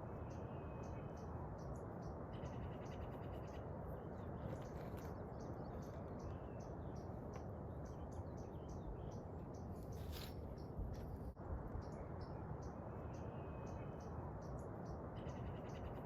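A small animal chirping repeatedly, short high notes a few times a second, over a steady rushing background.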